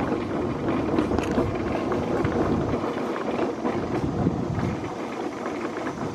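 Wind blowing across the microphone: a rough, uneven rushing noise that eases slightly near the end.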